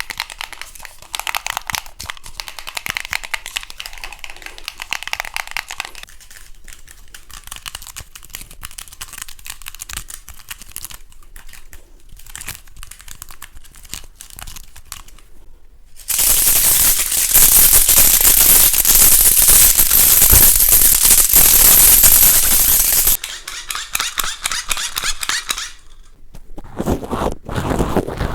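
A run of close-miked ASMR triggers: fast light clicking and tapping for the first half, then, about halfway through, several seconds of loud, dense crackling or scratching noise, followed by shorter bouts of the same near the end.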